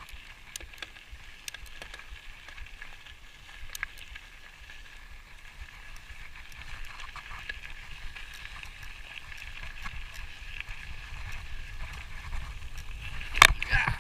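Outdoor background of low wind rumble on the microphone and a steady high-pitched hum, with scattered small clicks. A sharp, loud clack comes about half a second before the end.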